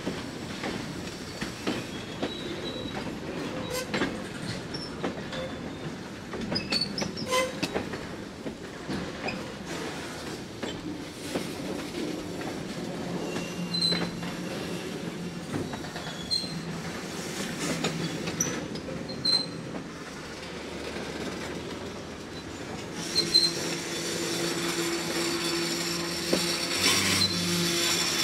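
Freight train tank cars rolling slowly past close by: wheels clicking and knocking over rail joints over a steady rumble, with short high squeals from the wheels. Near the end it grows louder and a steady held tone sets in.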